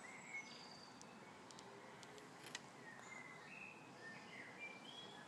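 Near silence with several faint, short, high bird chirps now and then.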